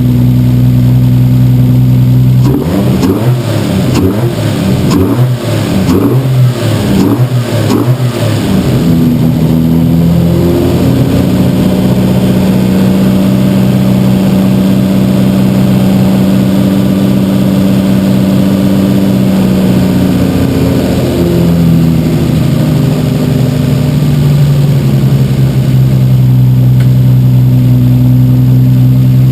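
Rebuilt Toyota 1JZ-GTE 2.5-litre inline-six turbo engine, with bigger cams and a big turbo, running shortly after its first start. It idles, then takes a quick series of throttle blips a few seconds in. It then holds a raised steady idle for about ten seconds before dropping back to a steady idle.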